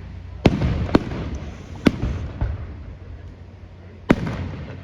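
Aerial fireworks going off: sharp bangs about half a second in, at one second, near two seconds and at about four seconds, each trailing off in a long echoing tail.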